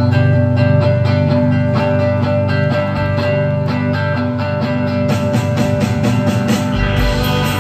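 Live rock band playing a strummed guitar intro with a steady beat. Crisp cymbal strokes join about five seconds in, and a deeper bass line comes in near the end.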